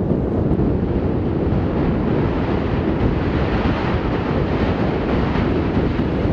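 Strong wind buffeting the microphone: a loud, steady, low rumbling roar with no let-up.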